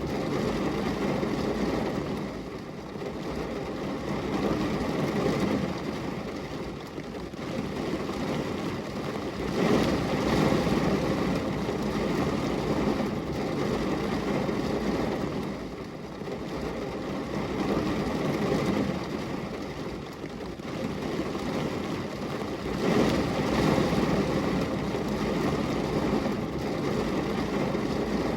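Steady rain falling on a glass window: a dense, even hiss and patter that swells and eases in waves every several seconds.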